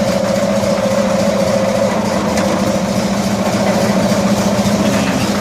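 1974 Cushman Truckster engine idling steadily in first gear, turning the wheels and the speedometer cable.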